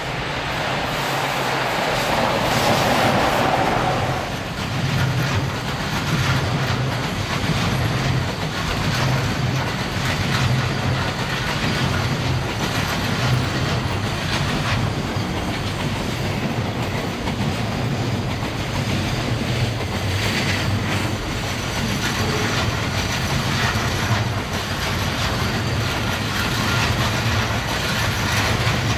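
An EF66 electric locomotive and a long rake of container flat wagons passing close by. The locomotive goes by in the first few seconds, the loudest part. After that the wagons' wheels clatter over the rail joints in a steady rhythm.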